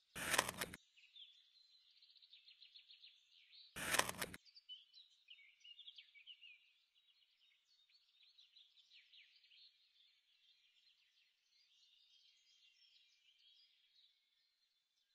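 Birds chirping and twittering faintly, with two short bursts of noise, one right at the start and one about four seconds in.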